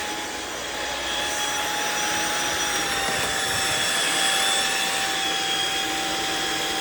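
Riccar R70 wet-dry floor washer running steadily, a motor whine with a steady high tone over a broad rush of suction and brush rolls, the tone dipping slightly in pitch about three seconds in.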